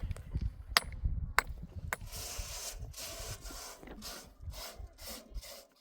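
Four sharp knocks in the first two seconds, then a run of quick rasping scrapes, a few strokes a second, that fade out just before the end.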